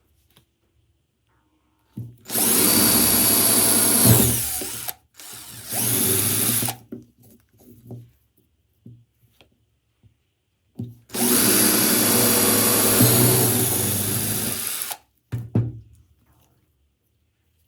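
Handheld electric power tool running in three bursts: about three seconds, then a shorter one, then about four seconds after a pause, stopping abruptly each time.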